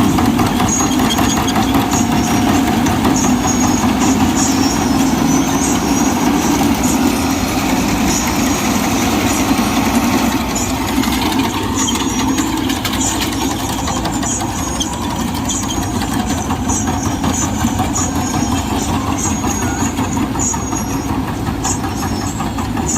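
Sonalika Sikander Worldtrac 60 RX tractor's diesel engine idling steadily. It gets a little quieter about ten seconds in.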